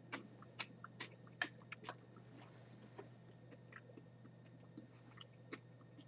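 Faint crunching as a mouthful of boiled, salt-dried Chinese yellow scorpion bits is chewed: a run of short, sharp crunches, densest in the first two seconds and thinning out after.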